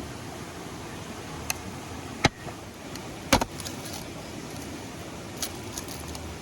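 A few sharp knocks or clacks, the two loudest about two and three and a half seconds in, over a steady hiss.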